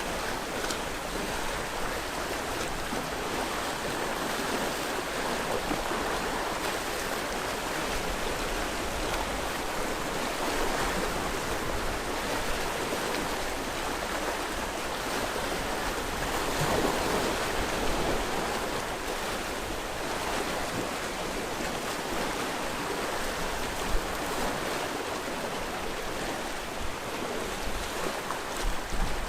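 Sea waves washing on the shore in a steady rush, swelling a little past the middle, with one short splash or knock near the end.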